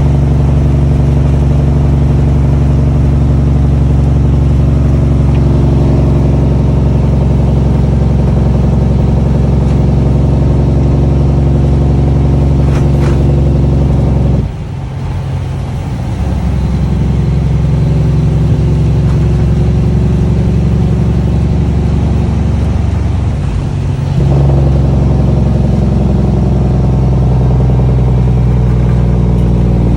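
Cummins ISX diesel truck engine running loud through six-inch straight pipes, holding a steady note. About halfway through it drops off, builds back over a couple of seconds, and steps up louder again later on.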